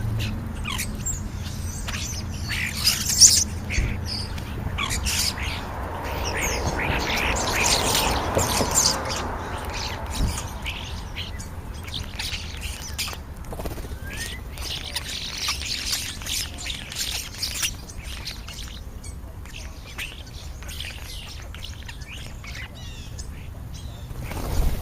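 A flock of European starlings calling at a feeding pile: many short, overlapping chirps, whistles and squawks, with a passing rush of noise in the middle.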